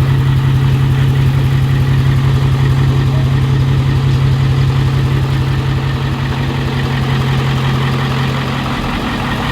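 Diesel truck engine idling loudly and steadily, with an even, fast low pulse.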